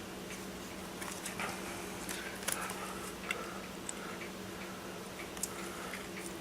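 Scattered light clicks and taps from small tools and parts being handled on an RC crawler's motor mount, over a steady low hum.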